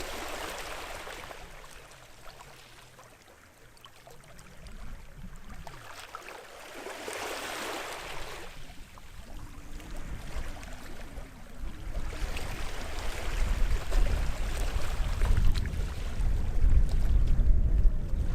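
Small sea waves washing in on the shore, each wash a swelling hiss, the clearest at the start and about seven seconds in. A low rumble builds in the last third as the sound grows louder.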